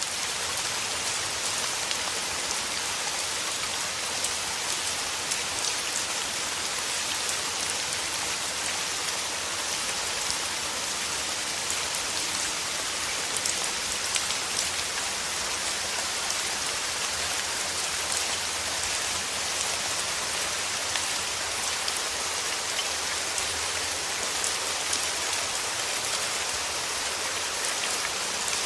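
Steady, dense rainfall hitting a surface, an even hiss of drops with fine ticks of individual raindrops.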